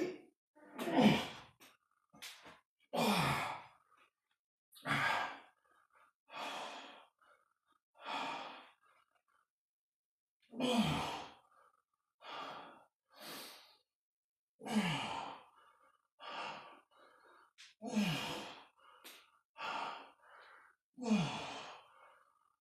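A man breathing hard through a set of dumbbell reps: forceful, sighing exhales with a little voice in them every few seconds, quieter inhales between, and a short pause near the middle.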